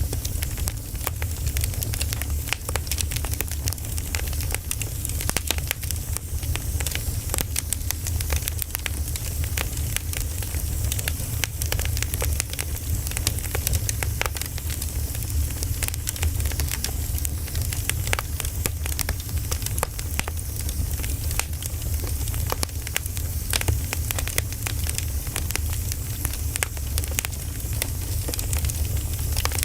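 Wood fire burning with a steady crackle: many small irregular pops and snaps over a low rumble and a soft hiss.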